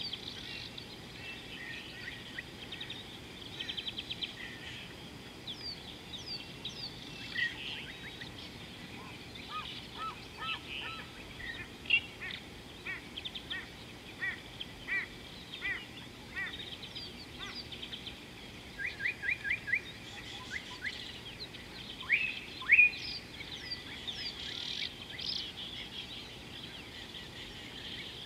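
Several wild birds calling: scattered short chirps and whistled notes over a steady high hiss, with a quick run of repeated notes about two-thirds of the way through and the loudest calls shortly after.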